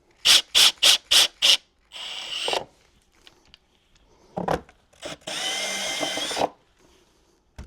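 Power drill with a step bit boring a hole through the wall of an Apache 4800 plastic case: five quick trigger pulses, a short burst, a knock, then a longer run of about a second with the drill's motor whine.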